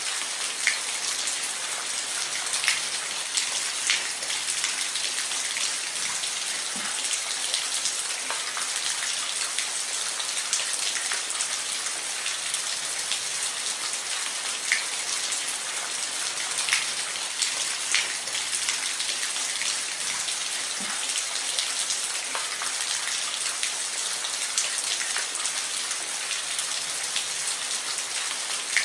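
Steady rain falling on a roof, a dense hiss with distinct single drops ticking through it.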